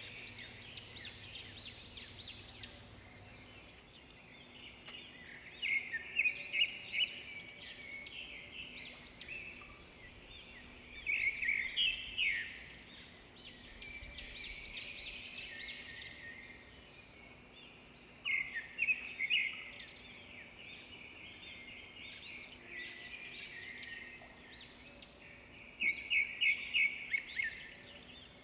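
Tropical forest birds calling continuously, with louder bursts of quick, repeated chirping notes every five to eight seconds. A faint steady low hum runs underneath.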